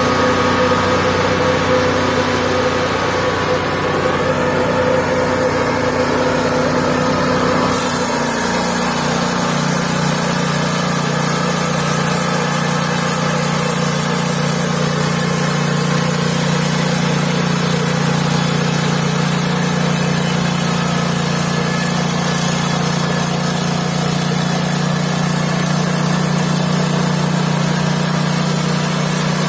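Mobile band sawmill running with a steady motor note. About eight seconds in, the note drops slightly in pitch and a high hiss joins it for the rest of the stretch.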